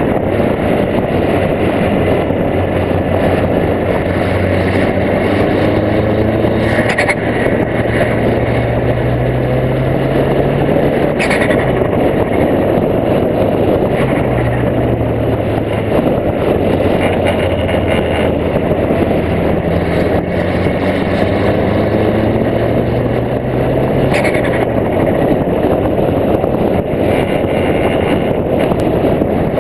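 Wind rushing over a bonnet-mounted camera while a Golf Mk2's 1.8-litre turbocharged four-cylinder engine pulls under load. The engine note rises steadily and then drops off sharply, once about a third of the way in and again near the end, each time with a brief sharp sound.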